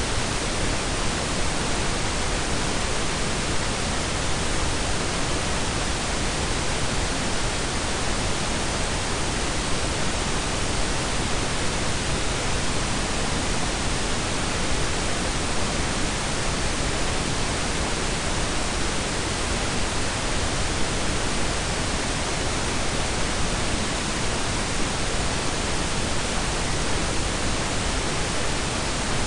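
Steady blend of pink and brown noise, an even unchanging hiss with a deep rumbling low end.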